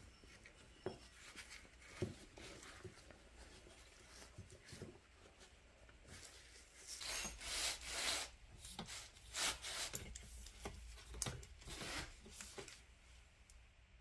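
Faint handling noises as the shock body, blower tube and bag are worked: rubbing and light knocks, with a run of short rustles in the second half.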